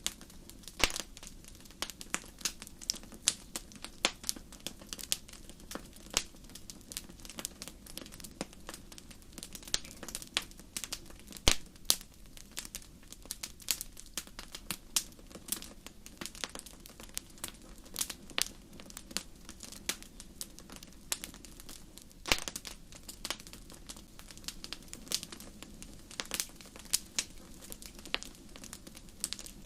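Wood fire crackling, with irregular sharp pops and snaps several times a second over a low steady rumble.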